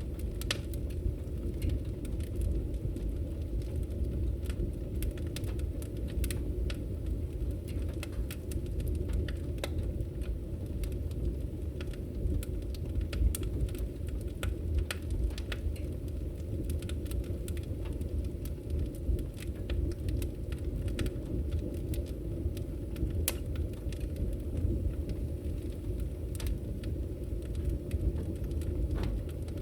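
Wood fire burning in a fireplace: a steady low rumble of flame with scattered sharp crackles and pops from the logs.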